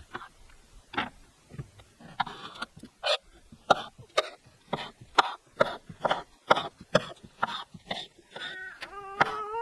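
A voice making short cough-like bursts about twice a second, ending in a wavering high-pitched call near the end.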